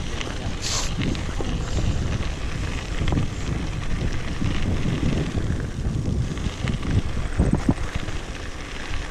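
Wind buffeting the camera microphone during a mountain bike ride, a steady rumbling noise with scattered knocks and clicks.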